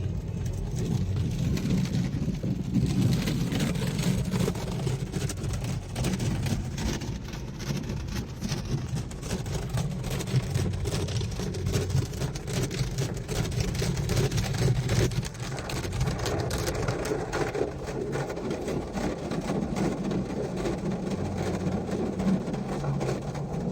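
Automatic car wash machinery working over the car, heard from inside the cabin: a steady wash of noise over a low hum, with many small rapid hits throughout.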